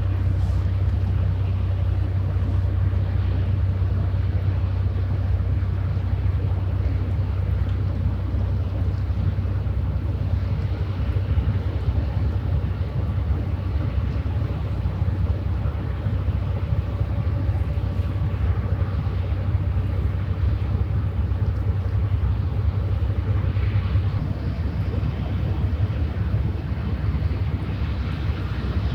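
Steady low drone of a passing cargo ship's or barge's diesel engine, with wind buffeting the microphone. The low hum eases a little near the end.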